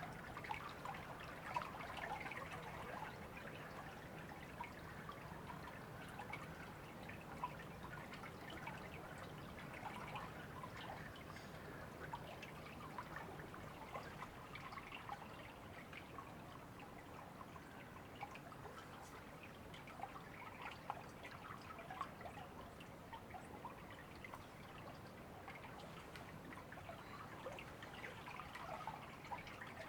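River water trickling and babbling, a steady run of small splashes and gurgles.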